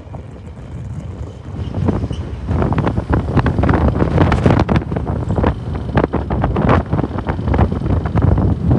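Sandstorm wind buffeting the microphone in ragged gusts with a low rumble, building up about two and a half seconds in and staying strong.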